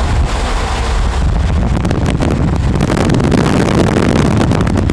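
Strong wind from a nearby tornado's storm blasting across the microphone, with scattered crackles.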